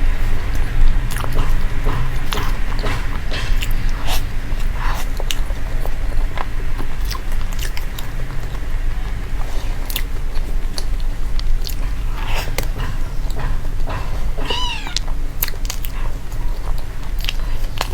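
Close-up chewing and crunching of food, many quick crunches in an uneven run, with one short squeaky call that rises and falls about fourteen seconds in.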